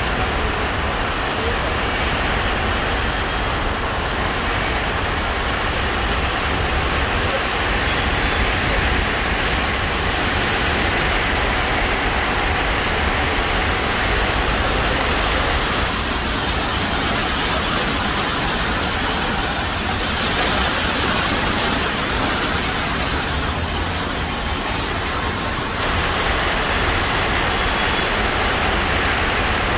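Steady city street traffic noise: road vehicles running, with a constant low rumble.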